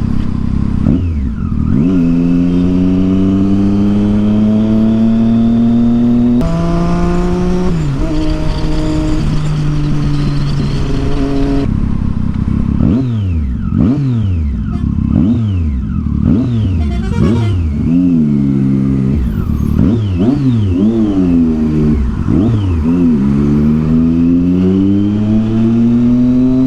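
Triumph Street Triple 675's inline three-cylinder engine through a loud Yoshimura aftermarket exhaust, under way: a long rising pull, a sudden drop in pitch at a gear change, then a run of quick throttle blips about one a second, and another long rising pull near the end.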